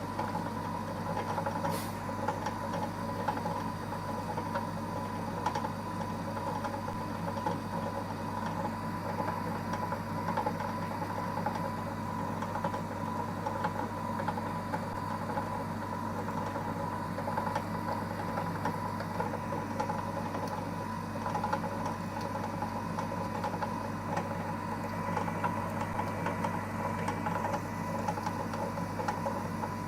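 EMCO Compact 5 benchtop lathe running with the spindle turning, a steady motor and drive hum with a constant whine.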